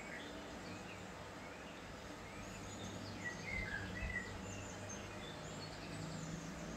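Faint bird chirps, short and scattered, over a steady low hum.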